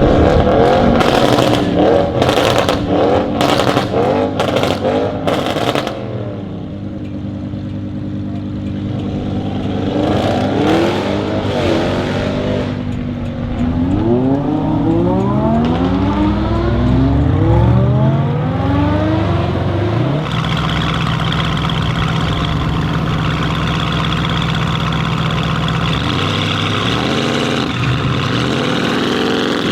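Audi RS6 C8's twin-turbo V8 with its particulate filter deleted, revved hard with a rapid string of loud crackles and pops for the first several seconds. It then settles briefly, revs up again several times in rising sweeps, and runs on with a steady note for the last third.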